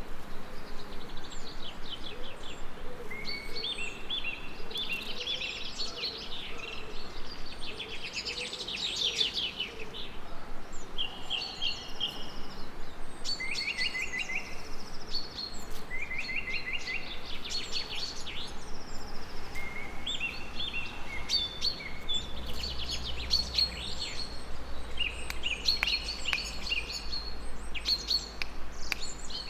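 Several songbirds singing at once, with many short whistled phrases and quick trills layered over each other, above a steady background hiss.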